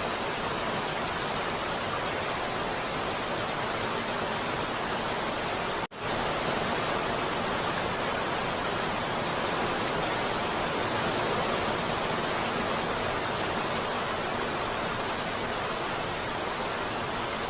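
Steady heavy rain, an even hiss with no pattern to it, that cuts out for a split second about six seconds in.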